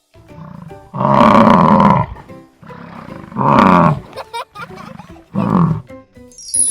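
A goat bleating three times, each a quavering call: the first about a second long, the last short. A falling chime-like sound effect starts near the end.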